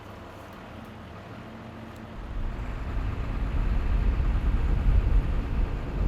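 An engine idling steadily, then a much louder low rumble that starts about two seconds in.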